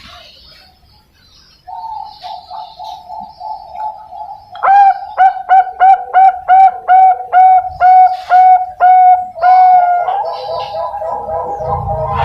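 Zebra dove (Bangkok perkutut) cooing. It starts with a soft, rapid rolling trill, then gives a run of about a dozen loud, clipped coos at a steady pitch, about two or three a second, and ends on a longer note.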